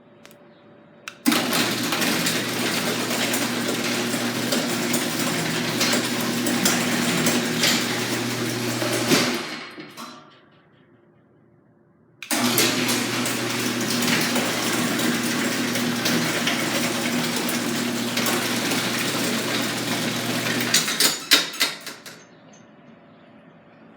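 Garage door opener running twice, a steady motor hum with chain-and-door rattle for about eight seconds each time, starting with a click. A few clanks come as the second run ends, as the door settles at the end of its travel.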